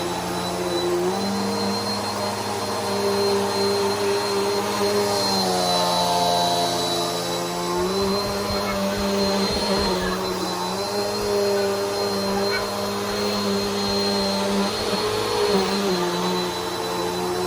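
Bissell Powerforce Helix upright vacuum cleaner running, a steady motor hum with a thin high whine. Its pitch dips and rises again several times.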